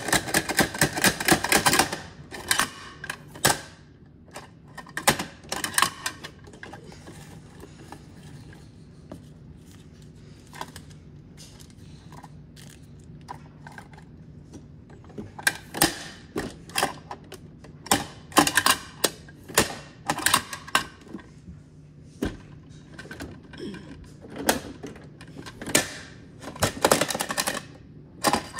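Rapid clicking and clattering of hard objects in bursts of a second or two, with a quieter stretch in the middle, over a low steady hum.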